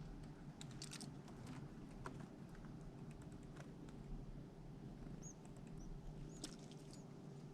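Light scattered clicks and scratching of small animals at a feeder, with a few short high bird chirps from about five seconds in, over a faint steady hum.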